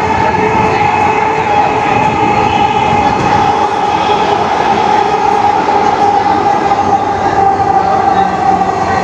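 Dhaka Metro Rail (MRT Line 6) train running between stations, heard from inside the carriage: a steady rolling rumble with a high whine that sinks slightly in pitch.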